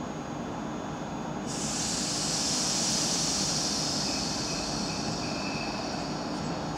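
A train coming slowly into the platform, with a steady low hum and rumble. About a second and a half in, a high hiss starts suddenly and then slowly fades. A faint squeal sounds briefly near the middle.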